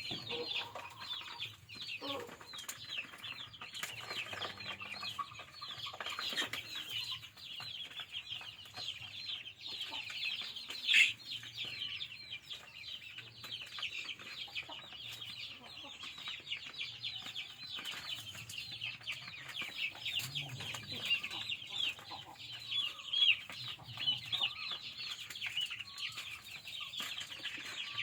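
Chickens calling: a dense, continuous chatter of short, high calls, with one louder call about eleven seconds in.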